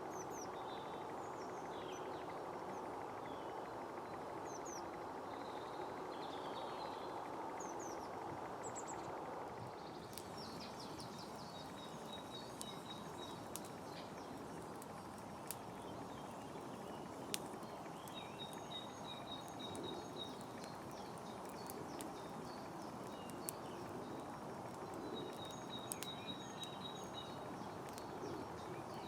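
Woodland ambience with birds: short chirps and calls at first, then from about a third of the way in a bird repeating quick, rapid trills, over steady background noise. A few faint sharp clicks.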